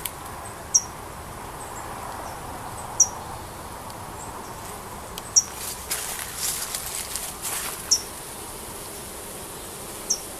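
Honeybee colony buzzing steadily at the hive entrance, bees flying in and out and fanning their wings to cool the hive on a hot day. A short, high, falling chirp cuts through five times, about every two and a half seconds.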